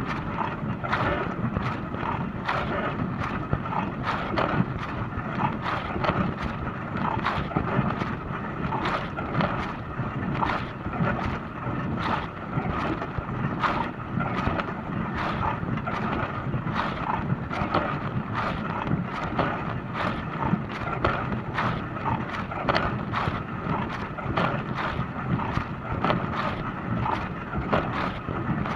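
Dishwasher running through its wash cycle: water spraying and splashing against the inside of the tub in a steady, irregular stream, with a low hum underneath.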